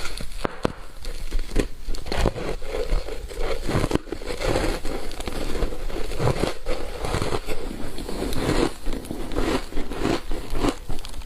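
Close-miked crunching and chewing of ice chunks coated in matcha powder: a rapid, irregular run of cracks and crunches.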